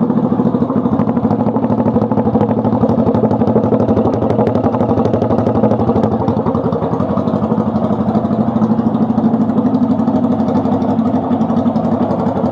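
1965 Honda CB77 Superhawk's 305 cc parallel-twin engine idling steadily through new Emgo mufflers, with a fast, even exhaust beat.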